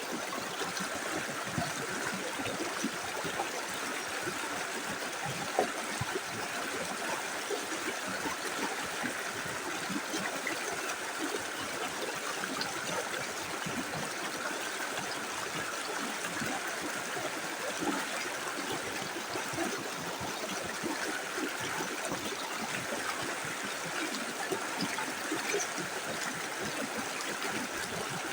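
A small river's water flowing steadily, a continuous rush with trickling and gurgling. One brief sharper sound stands out about five seconds in.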